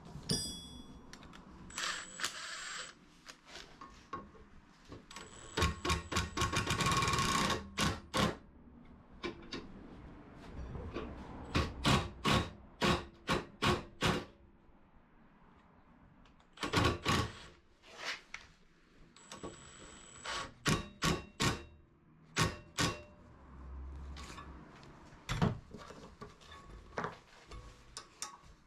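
Metal workshop work on rebar: a power tool runs in short whining bursts, once in a dense rapid rattle, between many sharp metallic knocks and clicks, some in quick series of several a second.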